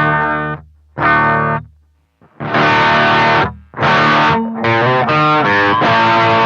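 Electric guitar played through effects pedals: two short chords, then from about two and a half seconds longer held chords with brief gaps between them.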